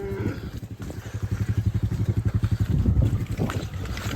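Small farm vehicle engine running with a rapid, even low beat that grows louder about a second in.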